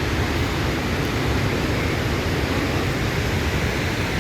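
Victoria Falls' main waterfall, heard close by: a loud, steady rush of falling water.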